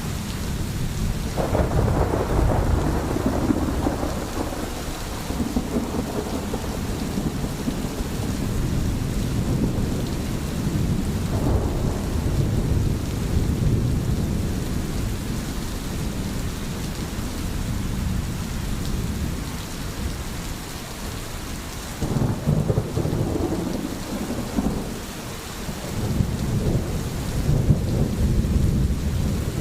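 Steady rain with rolling thunder: low rumbles swell up about two seconds in, again around twelve seconds, and twice in the last third.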